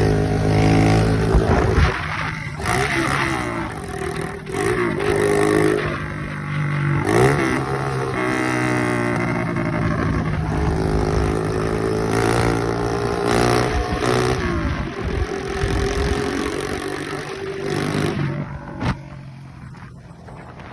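Small four-stroke moped engine running on a bare exhaust pipe with no muffler, revving up and down repeatedly. It eases off and gets quieter in the last few seconds.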